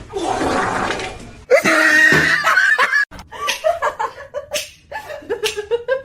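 A loud rushing, noisy sound for about a second and a half, then a person laughing in short repeated bursts.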